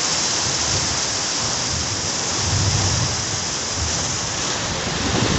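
Heavy rain pouring steadily in a thunderstorm, a dense hiss, with a low rumble swelling about halfway through.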